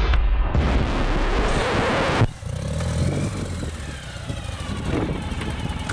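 Rock music that cuts off abruptly about two seconds in, then a Ural sidecar motorcycle's 750cc boxer engine running, with its pitch shifting as it works through deep snow.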